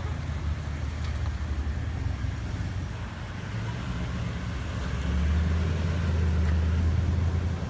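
Pickup truck engine running at low speed as the truck manoeuvres, a steady low hum that grows louder about five seconds in.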